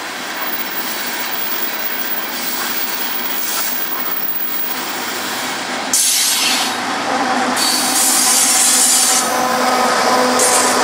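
Coal train hopper cars rolling past with a steady wheel-on-rail noise. About six seconds in, the mid-train diesel locomotive (UP 6899, a distributed-power unit) arrives and the sound turns louder, with a hiss and a steady engine hum.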